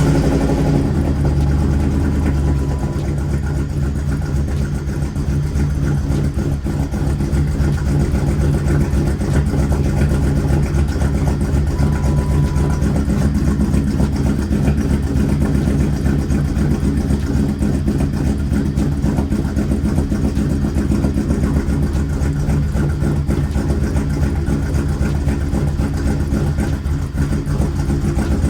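Mercedes engine idling steadily just after starting, with a slight miss that the owner puts down to the ignition coils not yet having been replaced. A short beep sounds twice.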